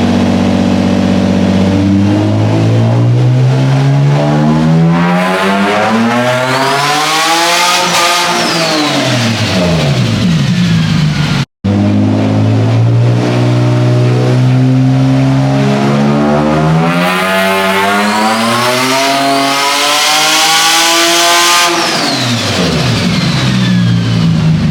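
Turbocharged Infiniti G35's 3.5-litre V6 making two wide-open-throttle tuning pulls. Each pull revs steadily up for several seconds toward about 6,500 rpm, where the MAF sensor maxes out, and then drops back as the throttle closes. A high whistle rises and falls with the revs, and the first pull cuts off abruptly about halfway through.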